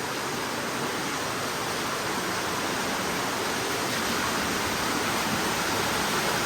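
Cave water falling and running, a steady rushing noise that slowly grows louder.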